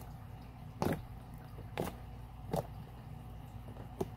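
Sticky slime being handled and squished, giving a few short wet clicks and pops about a second apart over a low steady hum.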